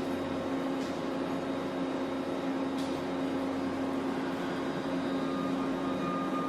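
Steady mechanical hum with a constant low tone, and a couple of faint clicks.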